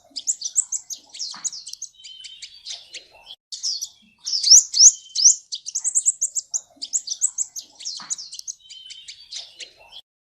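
Sunbird (Indonesian 'kolibri') song: a fast, high twitter of sharp rising chirps and trills. The same long phrase comes twice, and the song stops shortly before the end.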